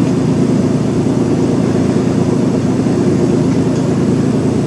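A fan running: a steady, even droning hum with a couple of low held tones in it.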